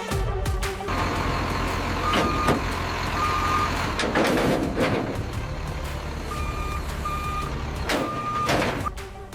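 A heavy vehicle's reversing alarm beeping about five times at uneven intervals over a steady low engine rumble, with a few clunks and knocks.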